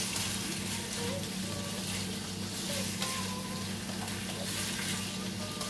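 Chicken liver frying in hot oil in a frying pan, with a steady sizzle, stirred with a wooden spatula.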